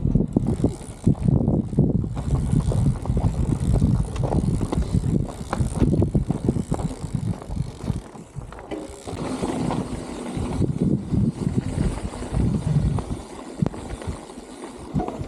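Bicycle ridden over rough ground: continual rattles and knocks from the bike with a low wind rumble on the microphone, easing somewhat after about eight seconds.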